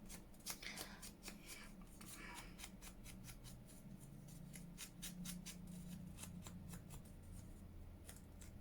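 Scissors cutting paper, faint: a run of many small, quick snips.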